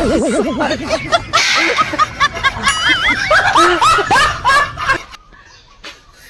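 Rapid, high-pitched laughter in many short rising-and-falling bursts, opening with a wobbling warble. It dies away about five seconds in.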